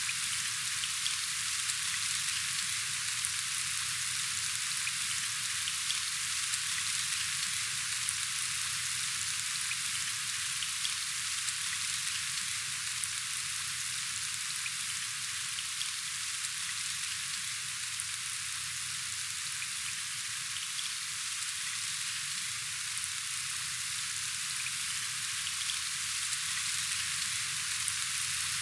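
Steady rain falling: an even hiss with scattered tiny ticks of individual drops.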